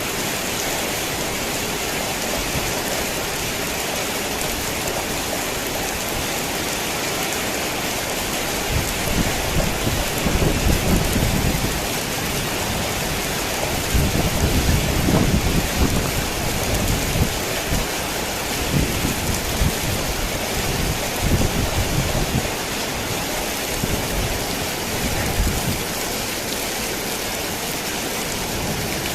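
Heavy rain falling steadily on a tin roof, with thunder rumbling in low swells from about nine seconds in, loudest around the middle and dying away a few seconds before the end.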